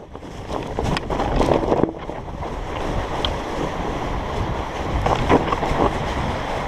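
River water rushing steadily, with wind buffeting the microphone and a few short sharp clicks.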